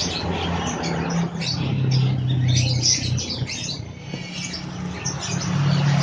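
Birds chirping in quick clusters of short high notes, over a low steady hum that swells twice.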